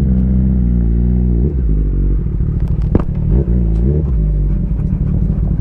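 Kawasaki ZX-6R 636 sport bike's inline-four engine running, its note holding steady and then dipping and climbing again twice as the throttle is rolled off and back on.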